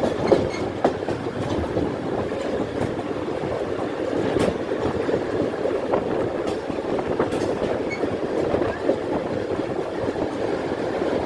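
Passenger train running on the rails: a steady rumble with scattered sharp clicks.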